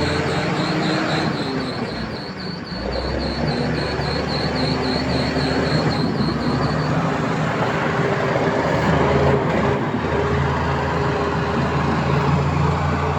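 Diesel engine of heavy earthmoving machinery running steadily under load, with a steady low drone, and a high, rapidly repeating chirp over roughly the first half.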